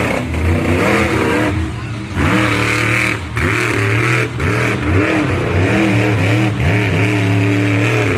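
Monster truck engine revving hard, its pitch climbing and falling again and again as the throttle is blipped, with a couple of brief drops.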